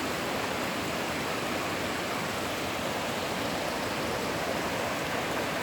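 Creek water rushing: a steady, even hiss of flowing water.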